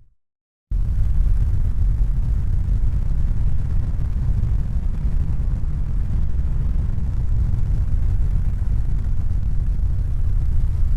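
Steady low rumbling noise, heavy in the bass with no distinct tones. It cuts in abruptly just under a second in after a moment of silence, and fades out near the end.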